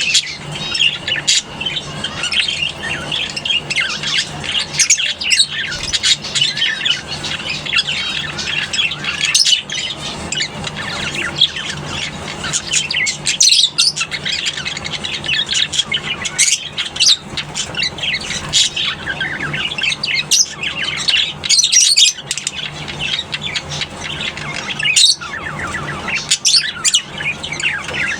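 A colony of lovebirds chattering and squawking, many birds calling over one another in a dense stream of shrill chirps and sharp calls, over a faint steady low hum.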